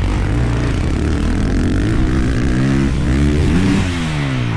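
Dirt bike engine running under throttle, its pitch rising and falling several times as it revs up and down, with a longer drop near the end before climbing again.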